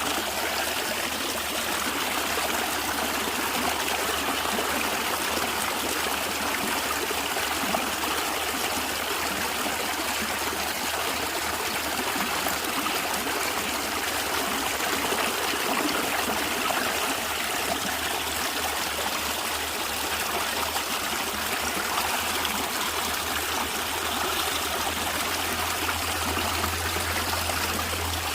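A natural stream running steadily over stones, its water gurgling and trickling. A low rumble underneath grows stronger near the end.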